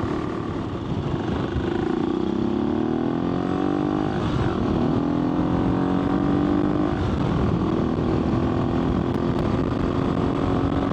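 AJP PR7 motorcycle's single-cylinder engine pulling under way, revs climbing and dropping at two gear changes about four and seven seconds in, then holding steady, with wind rumble on the microphone.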